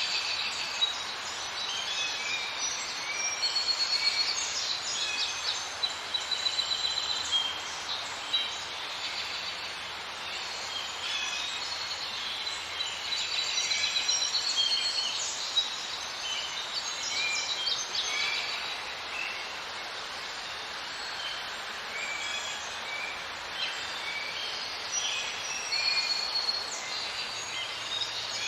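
Outdoor nature ambience: many small birds chirping and trilling over a steady hiss.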